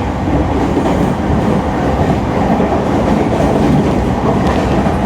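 JR East E231 series electric train running, heard from on board: a loud, steady rolling noise of wheels and traction motors, with no rising or falling inverter whine in this stretch.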